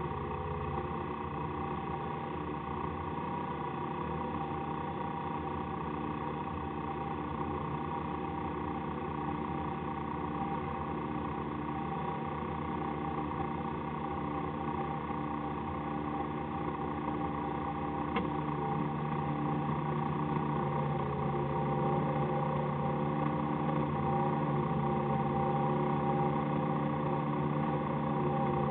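Citroën AX autocross car's engine idling steadily, heard inside the cabin while the car stands still. About two-thirds of the way through there is a click, then a deeper steady hum joins in and the sound grows slightly louder.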